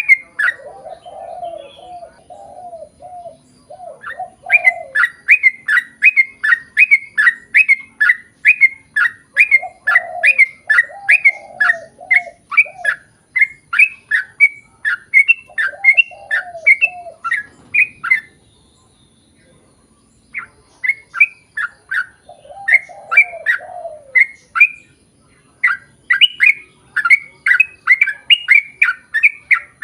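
Yellow-vented bulbul (trucukan) song: long, fast runs of loud repeated chirping notes, three or four a second, broken by a short pause about two-thirds of the way through. Between the runs come lower, warbled phrases, four short bouts of them.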